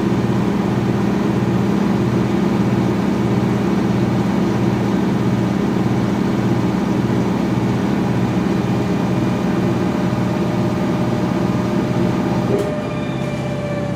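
2006 GE Profile top-loading washer in its final high-speed spin: a steady motor drone with a low throb about twice a second. A little before the end it drops off with a click and the pitch begins to sink as the drum coasts down.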